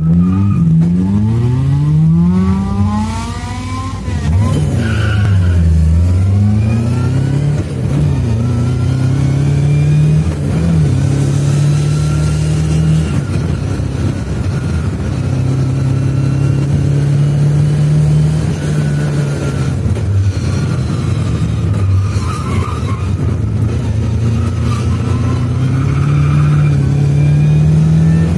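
Lada 2107 with a swapped-in 2000 cc Fiat engine, heard from inside the car, accelerating hard on a race track. The revs climb several times in quick succession through the gears in the first few seconds, fall away sharply as it slows for a corner, then rise again and hold fairly steady through the following turns with brief dips and rises.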